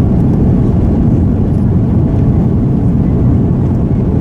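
Airbus A330-200 airliner's jet engines at takeoff power, heard as a loud, steady low rumble.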